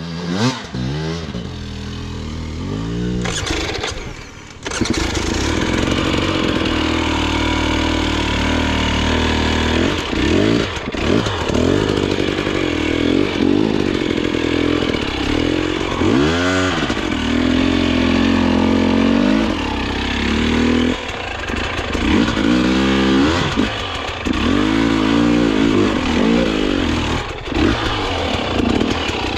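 Dirt bike engine revving up and down again and again, as the rider feathers clutch and throttle to find traction on a technical hard enduro climb. The engine drops low for a moment about four seconds in, then picks up again.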